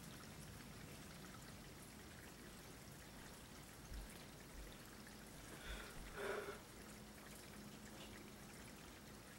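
Faint steady rain, with water trickling and dripping, after a thunderstorm. A few soft knocks and a brief faint sound come a little past halfway.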